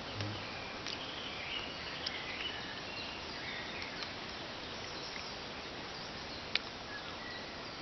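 Woodland ambience: a steady background hiss with faint, short bird chirps in the first few seconds and a single sharp click about six and a half seconds in.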